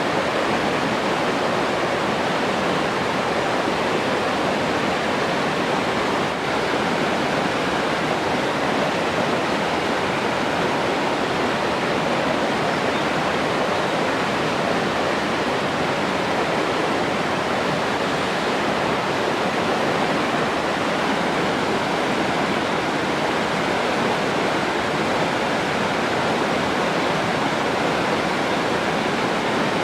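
Rushing water, a steady, even rush with no breaks or changes.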